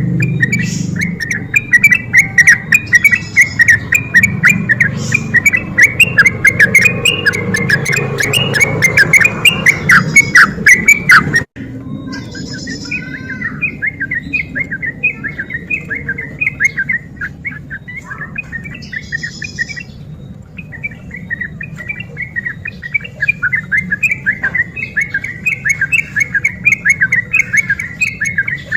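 Sooty-headed bulbul (trucuk) singing a rapid, unbroken run of chirping notes, in the 'ropel' style used as a lure to rouse other bulbuls. The sound cuts off abruptly about eleven seconds in, then the song resumes a little quieter.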